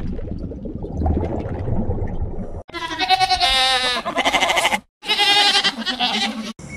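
Low rumbling noise, then after an abrupt cut an animal bleating twice, each call about one and a half to two seconds long with a quavering, wavering pitch.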